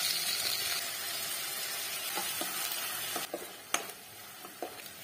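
Chopped tomatoes and green pepper dropped into hot oil with frying onions, sizzling loudly in the frying pan. The sizzle dies down after about three seconds, and a spatula stirring gives a few knocks and scrapes against the pan, one sharp knock a little under four seconds in.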